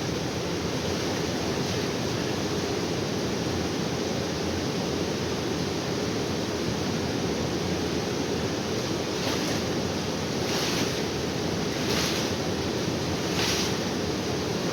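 Steady rushing of a waterfall. From about nine seconds in, a short hissing stroke repeats about every second and a half, four times.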